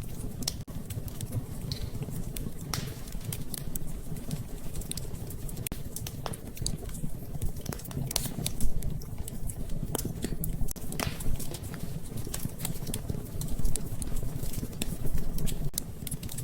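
Wood fire burning in a fireplace: a steady low rumble of flames with irregular crackles and sharp pops, a few louder ones about 8 to 9 seconds in and near the end.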